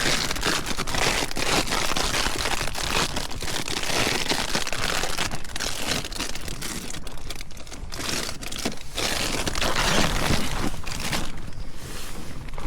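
Nylon fabric of a bothy bag crinkling and rustling continuously, with many quick crackles, as high wind shakes the shelter.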